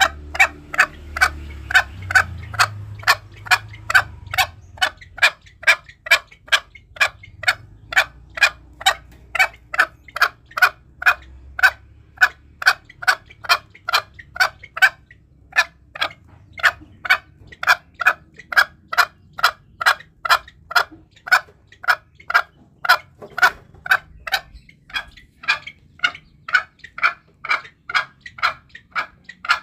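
Green junglefowl giving short, sharp calls in a steady run of about two a second, with a brief pause about halfway through. It is a lure call used to provoke wild junglefowl.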